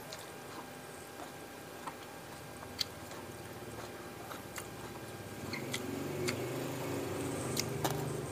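Close-miked chewing of a mouthful of fried tilapia with sambal matah and rice, with scattered sharp mouth clicks and lip smacks. The chewing gets louder and denser in the last few seconds.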